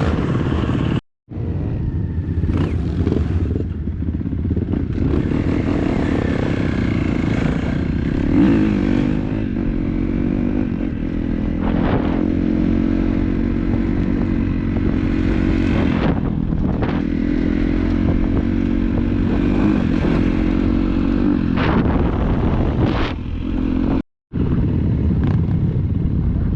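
Dirt bike engine running under way, its note mostly steady with small rises and falls, plus clatter from the ride. The sound drops out completely twice, very briefly: about a second in and near the end.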